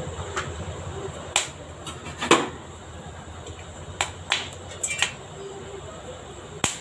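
Whole spices (cinnamon, cloves, cardamom) crackling in a little hot oil in a kadai: scattered sharp pops and clicks, about eight, the loudest a little over two seconds in, over a low steady background.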